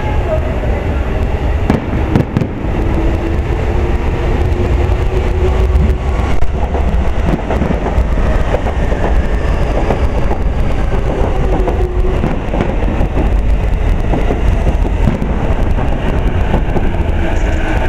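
Electric train running at speed close by: a heavy, steady rumble of wheels on rail, with a motor whine wavering up and down in pitch, and a few sharp clicks about two seconds in.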